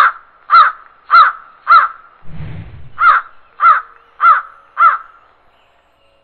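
A bird calling eight times in quick succession, about two calls a second, each call rising and falling in pitch. There is a short low rumble in the gap after the fourth call.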